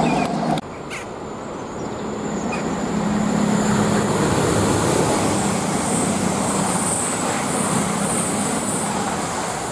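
CrossCountry Voyager diesel multiple unit passing close by: a steady rush of wheel-on-rail and engine noise that builds over the first few seconds and holds. It follows a sudden cut less than a second in from the noise of an earlier train.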